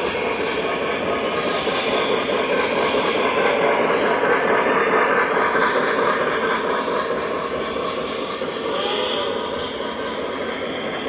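O gauge model train running on the track, a steady rumble of wheels and motor that grows louder to about the middle and then fades a little.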